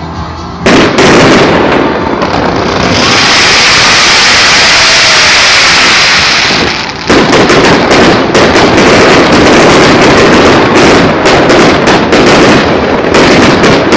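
Fireworks going off close by: a sudden bang just under a second in, a loud steady hiss for about four seconds, then rapid crackling pops and bangs.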